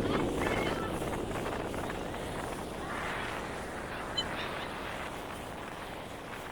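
Wind buffeting the microphone over the running of a fast tour boat, a steady rushing noise that gradually dies down.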